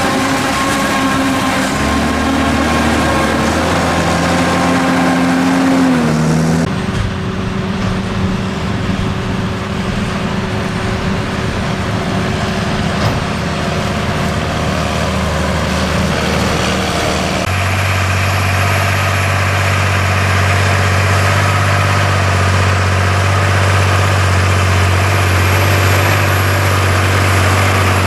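Large diesel engines of farm machinery running, with the engine pitch shifting in steps during the first few seconds. The sound changes abruptly twice, about seven and about eighteen seconds in, as it moves between different machines. After that a steady engine note with a faint high whine continues.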